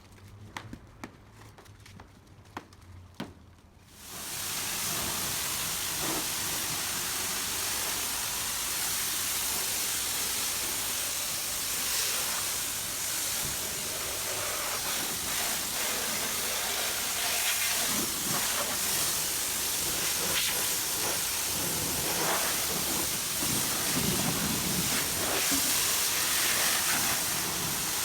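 A few light clicks, then about four seconds in a high-pressure wand at a self-service car wash starts spraying with a sudden loud, steady hiss of water jetting onto the car.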